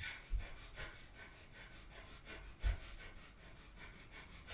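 Breath of fire: rapid, even, forceful breaths through the nose, several a second, each exhale pumped from the navel. Two dull low thumps, one just after the start and a louder one past the middle.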